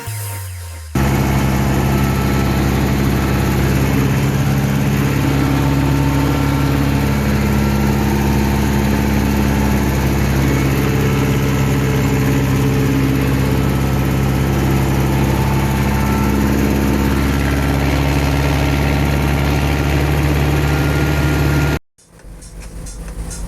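Diesel engine of a harvest machine (combine or tractor) running steadily at a constant speed, with an even low hum. It cuts off abruptly near the end.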